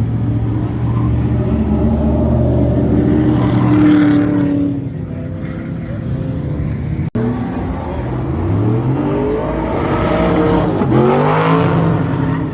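Car engine revving hard as it accelerates. Its pitch climbs and falls away, then after a brief dropout climbs again, with a quick dip and rise in pitch near the end.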